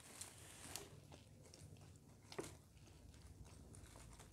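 Near silence: faint mouth sounds of chewing fried rice, with a couple of soft clicks, the clearest about two and a half seconds in.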